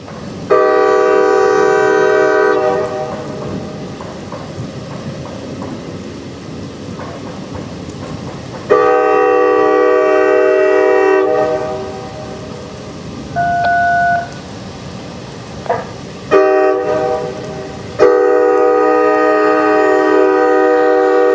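Locomotive air horn sounding its chord in the long, long, short, long pattern of a grade-crossing signal, over the steady rumble of the passing train. A brief beep comes about halfway through.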